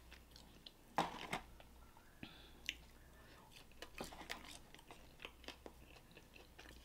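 A person chewing and biting hard, crispy fried chicken wings, with scattered crunches and clicks. A louder double crunch comes about a second in.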